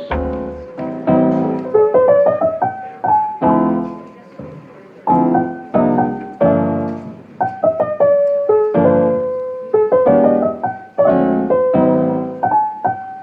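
Background music: a gentle lo-fi piano track playing chords and a melody, with notes struck and left to ring away.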